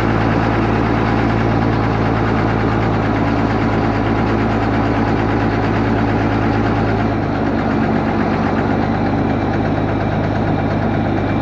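John Deere 4960 tractor's six-cylinder turbo diesel engine running steadily at a constant pitch, with a slight change in its low rumble about seven seconds in.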